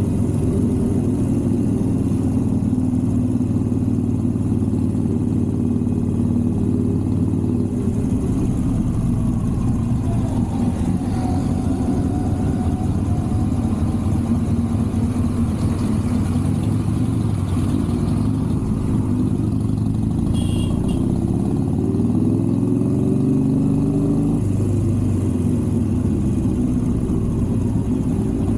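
Motor vehicle engines running steadily, their pitch sliding down and up again at times as they rev or pass. A brief high beep sounds about twenty seconds in.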